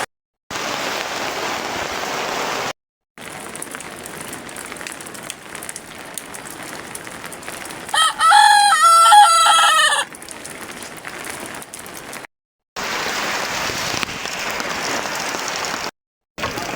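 Steady heavy rain hissing, with a rooster crowing once, loudly, for about two seconds midway. The rain is broken by a few brief silent gaps.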